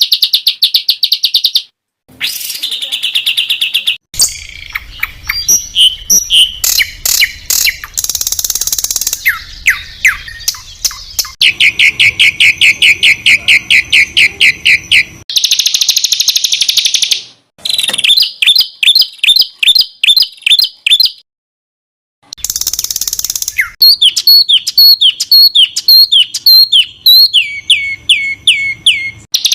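Small songbirds in an edited masteran sequence: fast, tightly packed runs of repeated high notes and trills, with harsh buzzy rattles (the 'coarse, tight shots' prized in contest song). The segments change abruptly, with brief silent cuts about two seconds in and about three-quarters of the way through.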